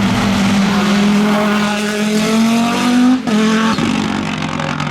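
2-litre single-seater race car's engine at high revs, its pitch creeping upward, then breaking off abruptly about three seconds in as the driver shifts or lifts. It then runs on at a lower pitch, slowly getting quieter.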